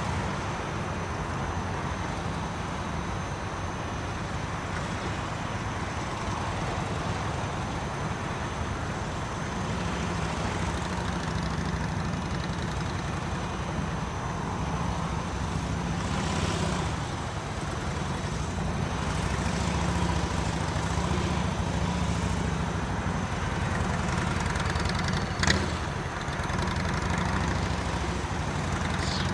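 Police motorcycle engine running at low speed during a slow-speed maneuvering course, its sound rising and falling a little. A single sharp click comes near the end.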